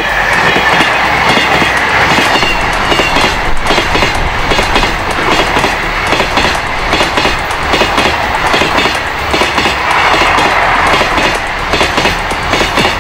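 Container freight train's flat wagons rolling past close by, their wheels clattering steadily over the rail joints.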